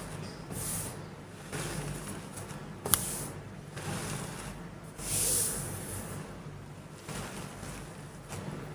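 Soft gym chalk being crumbled and crushed into powder: repeated soft, gritty hisses about a second apart, with one sharp crack about three seconds in.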